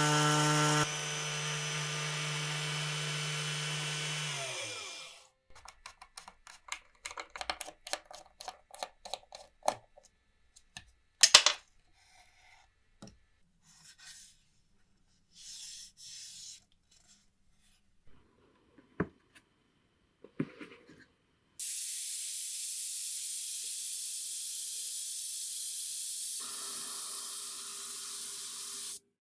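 A small power tool's motor running, then winding down and stopping. Many light clicks and taps follow, then a steady hiss for the last several seconds.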